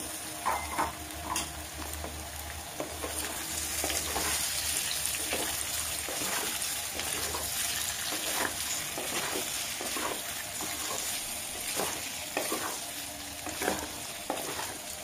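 Boiled potato cubes frying in oil in a deep metal pan, with a steady sizzle, while a wooden spatula stirs them and scrapes the pan in repeated strokes.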